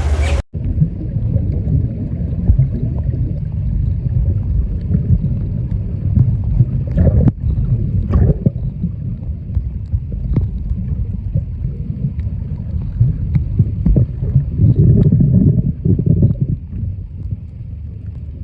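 Loud, rough, low rushing noise from wind buffeting the microphone, with a few faint knocks and clicks scattered through it.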